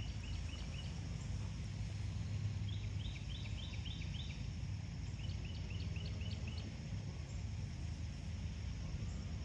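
A bird calling in three runs of quick, short chirps (one right at the start, one about three seconds in, one a little past five seconds), over a steady low outdoor rumble.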